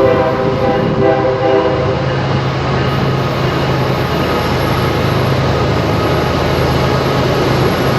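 A passenger train's horn sounds for about two seconds, then the train runs past with a steady, loud rumble.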